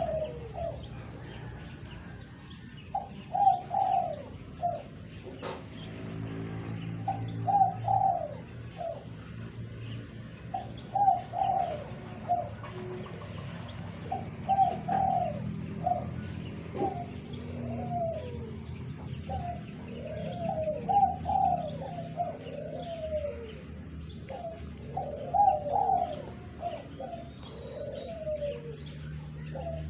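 Spotted doves (tekukur) cooing, one short phrase after another every second or few, over a steady low hum.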